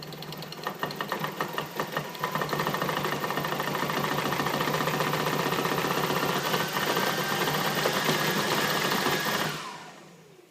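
Motors of a radio-controlled Airbus A330 model running with a harsh rattling buzz, stuttering for the first couple of seconds, then steady, then winding down quickly near the end. The rattle is the motors shaking and shivering, which the owner takes as a fault that needs them pulled and checked on the bench.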